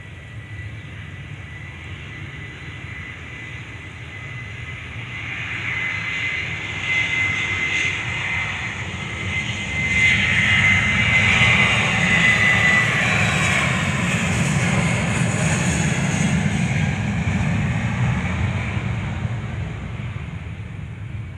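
Jet engines of a Boeing 737-300 passing by: the engine noise builds over several seconds, peaks about halfway with a steady high whine, holds, then slowly fades away.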